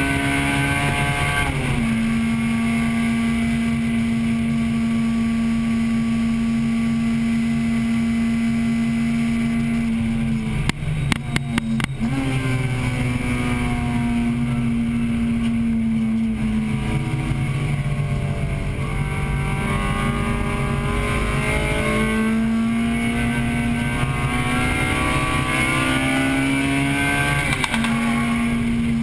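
A 1998 Acura Integra Type-R's 1.8-litre VTEC four-cylinder engine running hard, heard from inside the cabin. There is a sudden drop in engine pitch about a second and a half in, like an upshift, and a cluster of sharp knocks around eleven seconds in. The revs then sag and climb steadily again, with another sudden drop near the end.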